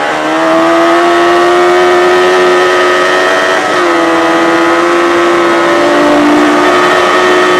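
Yamaha FZ600 race motorcycle's inline-four engine running hard at high revs. There is a brief dip as a gear changes at the start, the pitch then climbs slowly, and there is a small step in pitch about halfway through.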